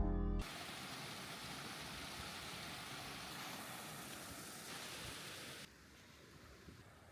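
Steady, even outdoor background hiss with no distinct events. It drops abruptly to a fainter hiss about two-thirds of the way through. The last note of a music track cuts off in the first half second.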